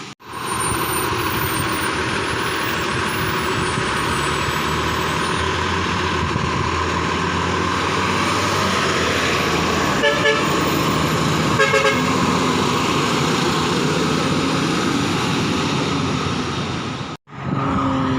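Heavy truck engine running with steady road and traffic noise. A horn gives two short toots about ten and twelve seconds in.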